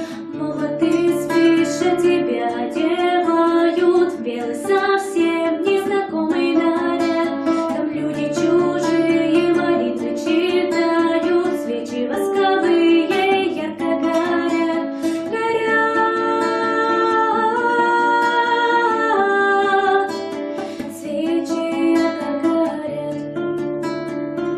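Music played on a plucked acoustic guitar, with a held melody line carried over the strummed and plucked notes.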